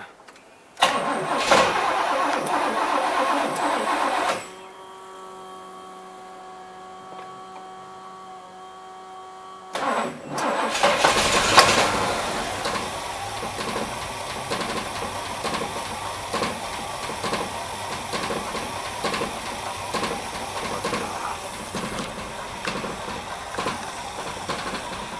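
1973 Pontiac Trans Am's 455 V8 started twice: it runs for about three seconds and stops, then starts again about ten seconds in and keeps running with a regular ticking rhythm. The ticking is the abnormal engine noise being chased, unchanged after a carburetor swap.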